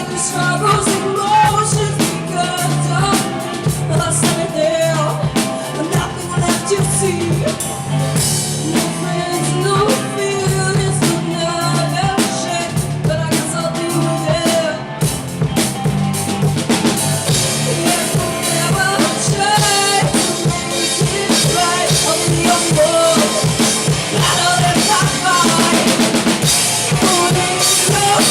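Live band playing, led by a drum kit with bass drum and snare hits over a steady bass line and melodic parts. The playing grows busier and brighter about halfway through.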